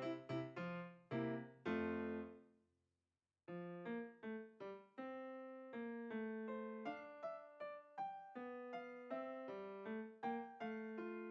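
Background piano music playing a light melody of separate notes. About two seconds in it fades out to brief silence, then starts again.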